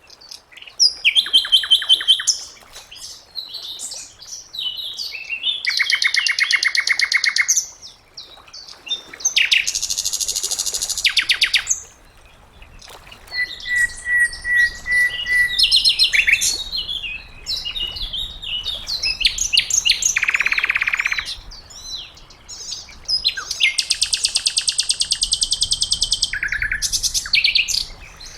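Sikatan londo singing a varied song of rapid trills and buzzy rattles, each phrase a second or two long, with short pauses between. About halfway through comes a brief run of even, clear whistled notes.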